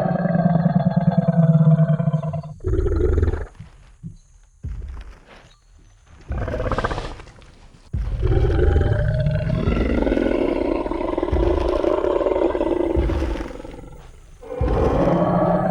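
Tyrannosaurus rex roar sound effect: a series of deep, growling roars, the longest lasting about six seconds in the second half, with quieter low rumbles between them.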